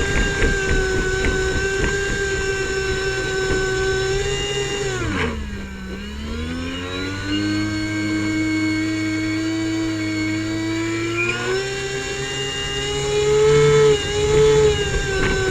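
Airboat engine and propeller running at speed, then throttled back about five seconds in so the pitch drops sharply and settles low. Around eleven seconds in it is opened up again and the pitch rises back.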